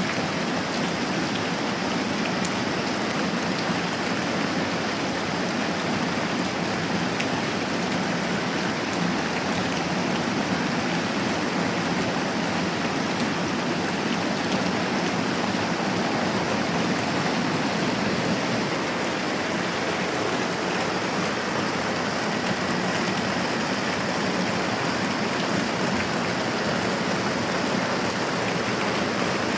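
Moderate rain falling steadily, an even hiss with no breaks.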